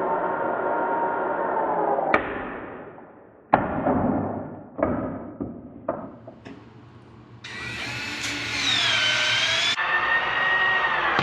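Milwaukee M12 plastic pipe shears whining as the motor drives the blade through plastic pipe, ending in a sharp snap about two seconds in as the cut finishes. Then a few knocks and clunks of pipe and fittings being handled. Near the end the shears run again, the whine dipping in pitch under load and recovering.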